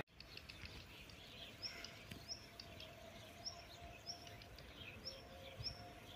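Faint outdoor ambience with a small bird giving short, high chirps over and over, with a faint steady hum underneath.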